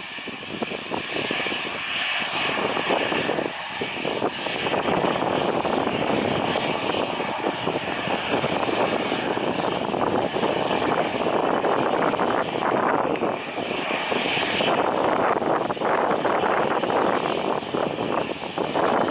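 Engines of a landing airliner passing, a steady roar that grows louder about five seconds in and then holds.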